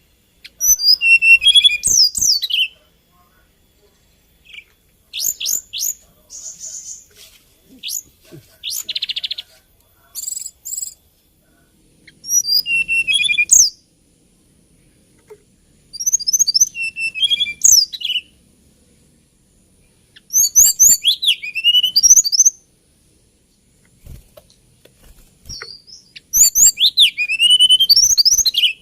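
Hill blue flycatcher singing: rapid phrases of high, sweeping whistled notes that rise and fall, each about two seconds long and repeated every few seconds, with a few short separate notes between phrases.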